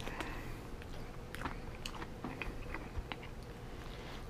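A person chewing and biting into buttermilk fried chicken, with an irregular scatter of small crunches and wet clicks.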